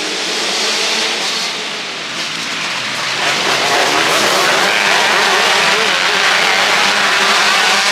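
A pack of 125 cc and 250 cc motocross bikes running hard together, a dense engine noise that swells about three seconds in and stays loud.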